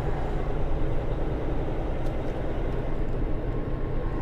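Steady low rumble of a semi truck's diesel engine heard inside the cab, with a faint steady tone joining near the end.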